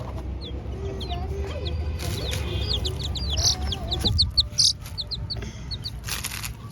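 Young chicks peeping: many short, high chirps, coming thick and fast in the middle, over a low hum, with a brief burst of noise near the end.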